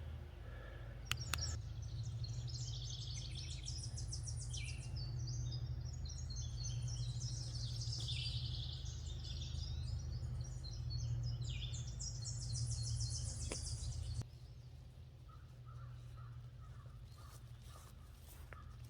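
Songbirds singing in dense, rapid high chirps and trills over a steady low hum. The singing cuts off suddenly about three-quarters of the way through, leaving a few fainter calls.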